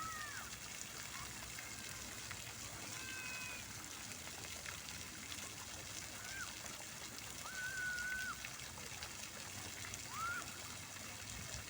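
Fountain water splashing and falling in a steady rush.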